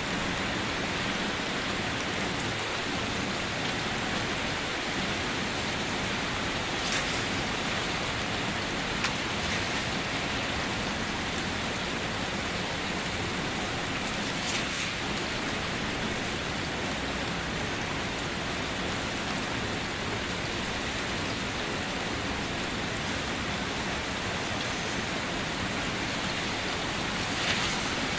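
Steady rain falling and pattering on surfaces, an even hiss with occasional louder drops.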